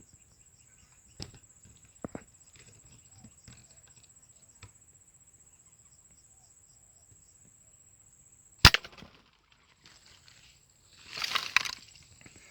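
A single sharp, loud shot about two-thirds of the way through, typical of an air rifle fired at a spotted dove. Before it a faint steady high-pitched whine and a few small clicks; near the end a short burst of rustling like footsteps in undergrowth.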